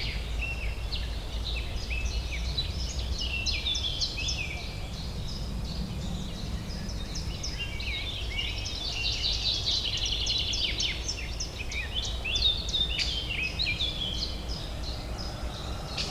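Several birds chirping and singing at once, a dense overlapping chorus of short high calls, over a steady low urban hum.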